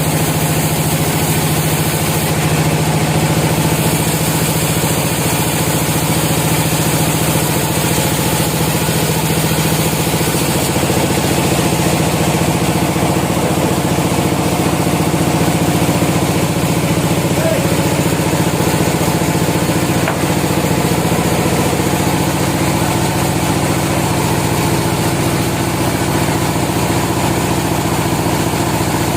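Sawmill machinery running steadily, a constant engine-like drone with no breaks or changes.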